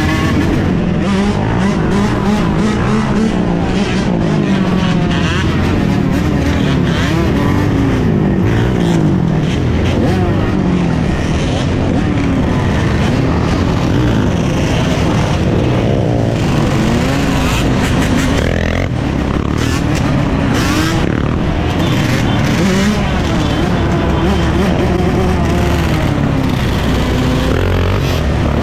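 A pack of many dirt bike engines running and revving at once, their overlapping pitches constantly rising and falling.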